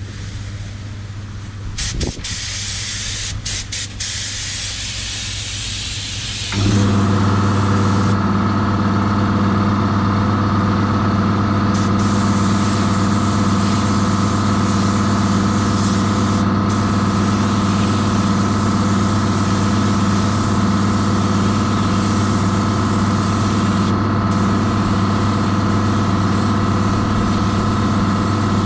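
Air spray gun hissing as clear coat is sprayed, in a few short bursts and then steadily. About six or seven seconds in, a motor, typical of the air compressor feeding the gun, starts up and runs with a steady hum under the continuing spray hiss.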